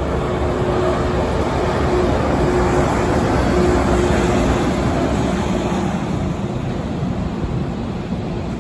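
EH500 electric freight locomotive passing, followed by its container wagons: a steady rumble of wheels on the track that swells to its loudest a few seconds in and then eases off, with a faint steady tone through the first half.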